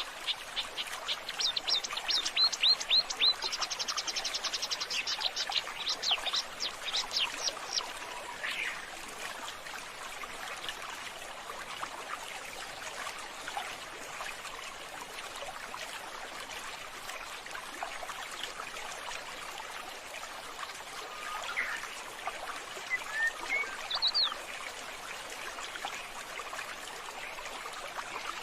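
Water trickling and splashing steadily, with a fast run of high, repeated bird chirps over the first third and a few more short chirps later on.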